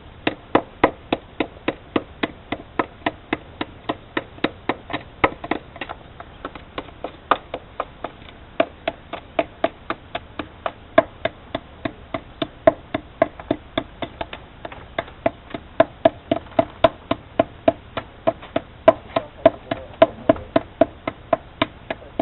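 Repeated hammer blows at a steady rhythm, about three sharp strikes a second, each with a short ringing knock.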